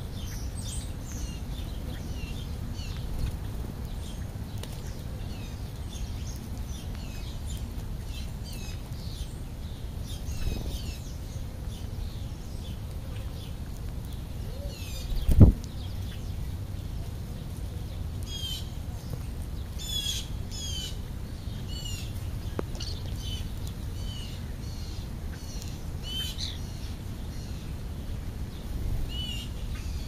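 Small birds chirping repeatedly in short high calls, more often in the second half, over a steady low rumble. A single loud thump comes about halfway through.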